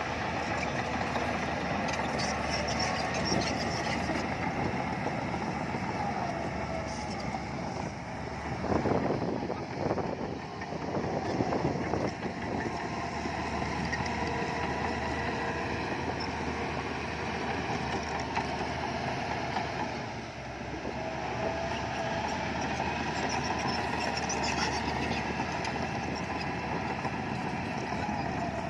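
SHANTUI bulldozer's diesel engine running steadily under load, with drifting higher whining tones over it. A cluster of heavy knocks and clanks comes about a third of the way in.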